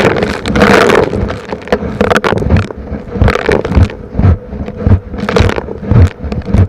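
Vacuum cleaner sucking up small rocks and grit, the pieces rattling and crackling irregularly up the hose over the machine's steady motor tone.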